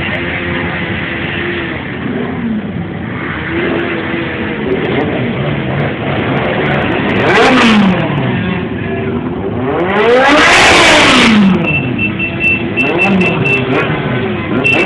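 Several motorcycle engines revving and passing, their pitch rising and falling one after another. Two bikes go by loudest, about halfway through and again about two-thirds of the way in.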